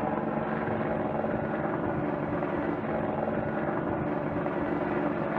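Helicopter running steadily, with a constant engine and rotor sound that carries a few steady low tones.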